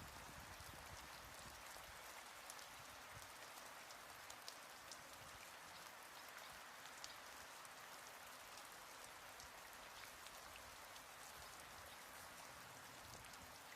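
Faint light rain: a steady soft hiss with scattered small drop ticks.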